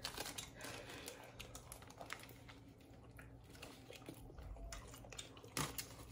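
Quiet eating noises from chewing food, with soft crinkles and small clicks throughout and one sharper knock near the end.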